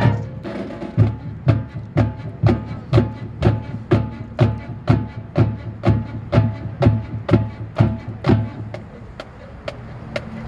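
Marching band drumline playing a steady cadence of about two strokes a second, sharp clicks over a low bass-drum thump, after the band's brass chord cuts off right at the start; it grows quieter near the end.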